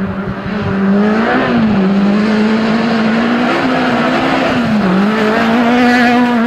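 Rally car engine running hard at high revs, its note held fairly level with brief dips in pitch about a second and a half in and again near five seconds, and growing louder about a second in.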